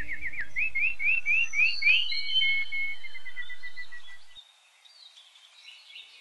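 A songbird singing: a fast series of short repeated whistled notes, then a run of rising notes and a falling trill, fading out about four seconds in.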